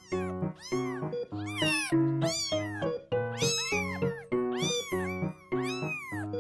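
Kittens meowing over and over, two to three high, arching meows a second that often overlap, over background music.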